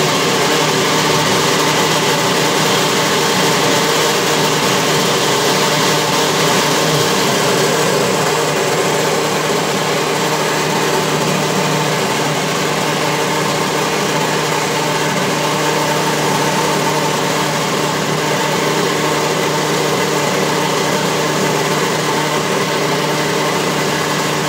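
Ninja blender motor running steadily at full speed through a full blending cycle, grinding a thick pigeon-feed mash. It starts abruptly and cuts off suddenly at the end of the cycle.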